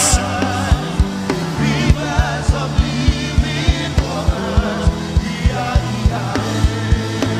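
Live worship band playing: a steady kick-drum beat, about three strokes a second, under sustained keyboard and bass chords, with faint voices singing in the background.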